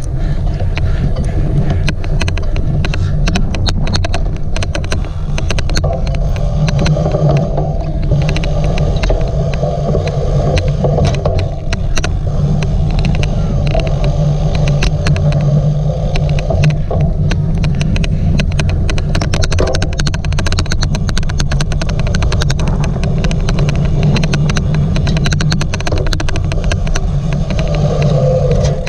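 Onboard sound of a cyclocross bike racing over rough ground: a steady low rumble of wind and vibration on the microphone, with many sharp, irregular clicks and rattles all through.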